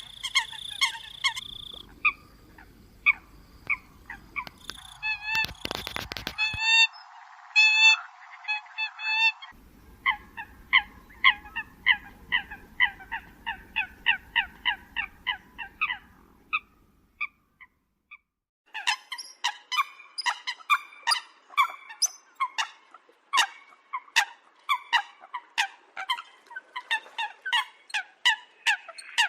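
Eurasian coots calling: rapid trains of short, sharp, repeated calls, several a second, in spliced stretches. A brief noisy burst comes about six seconds in, and the calls stop for over a second about two-thirds of the way through.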